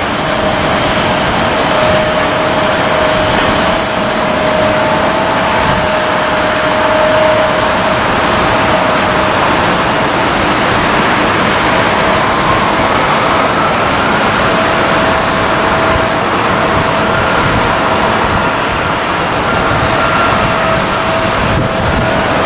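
Jet airliner engines running with a loud, steady rush and a steady whine, a second higher whine rising about halfway through.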